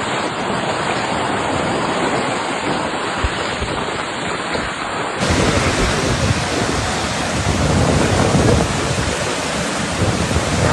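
Loud, steady rush of water with wind buffeting the microphone. About five seconds in, the sound switches abruptly to a brighter, fuller rush.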